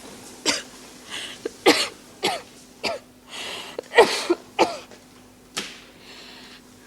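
An ill woman in a coughing fit: a string of short, harsh coughs about every half second to second, with rasping breaths drawn in between.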